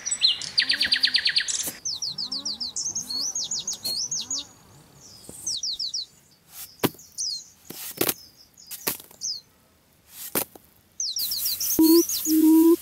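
Small birds chirping, with repeated runs of quick high chirps, and a few sharp knocks in a quieter stretch in the middle. Music with a shaker starts near the end.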